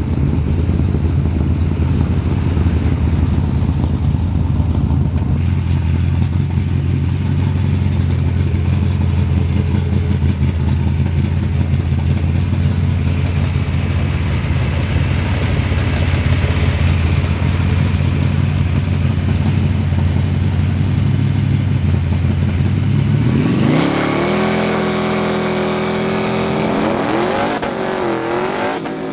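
A street car's engine idles loudly and steadily. Near the end it revs up hard as the car accelerates away, its pitch climbing, dropping briefly at a gear change, then climbing again.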